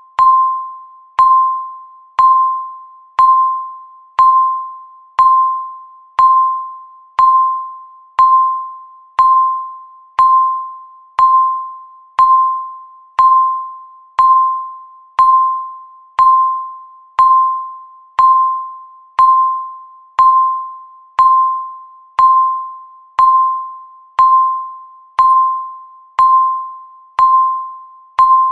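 Countdown timer beep sounding once every second: a short single tone that strikes sharply and fades away, repeating evenly.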